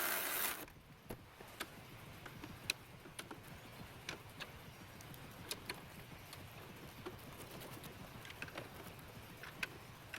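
Scattered light clicks and clinks of metal parts and tools being handled during strut installation, after a short hiss that cuts off about half a second in.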